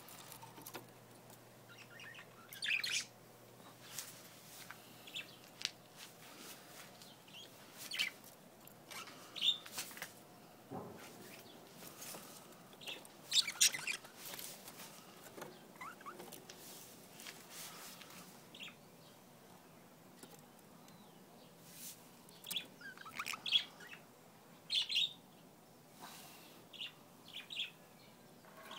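Pet budgerigars chirping in short, scattered calls, with a lull of a few seconds past the middle.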